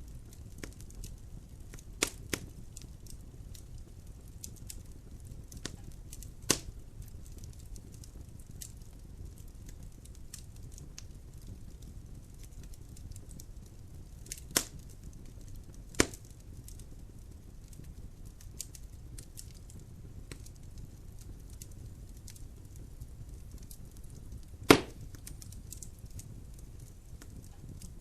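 Logs burning in a fireplace: a steady low rumble of fire with constant faint crackling, broken by six sharp pops of the wood, the loudest near the end.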